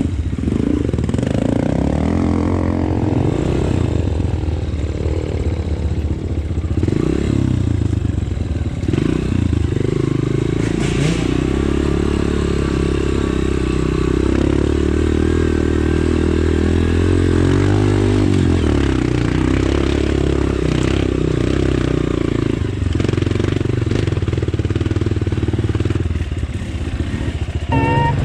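Off-road motorcycle engine running at low revs, its pitch rising and falling a little with the throttle.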